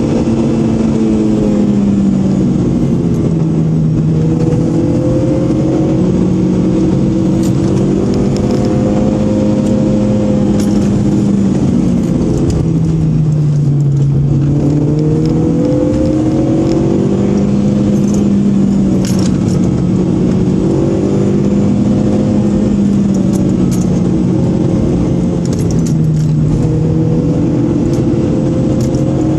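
A Honda car's engine heard from inside the cabin while it is driven hard. Its pitch rises and falls again and again as the car accelerates, lifts and brakes through the bends, with light rattling clicks at times.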